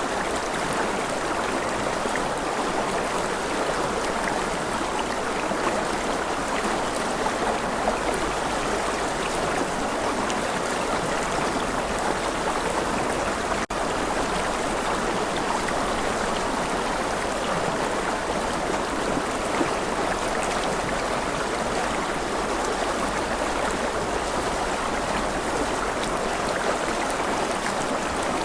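Steady rushing and gurgling of running stream water, unchanging except for a split-second dropout about halfway through.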